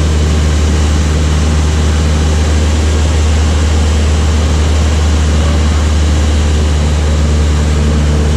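Light aircraft's piston engine and propeller running steadily at a constant pitch.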